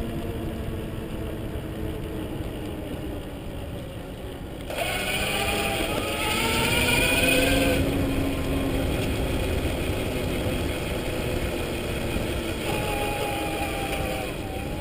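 Converted Schwinn S-25 electric mountain bike on the move: the electric drive motor's whine rises in pitch and gets louder about five seconds in as the bike speeds up, over a steady low rumble of wind and tyres.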